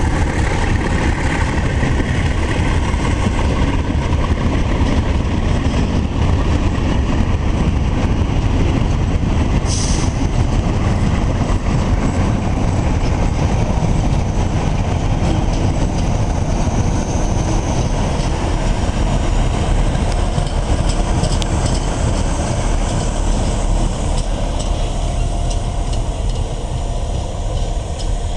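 Renfe class 321 diesel locomotive hauling a long works train past, its engine running under steady load and the wagons rumbling over the track, with a short high squeal about ten seconds in.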